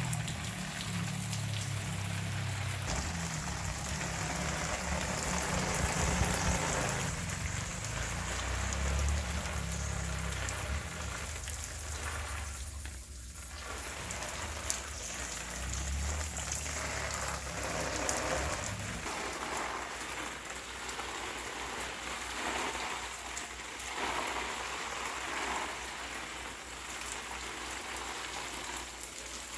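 Steady rain pattering on a surface, an even hiss with many fine drop impacts. A low rumble underneath stops about two-thirds of the way through.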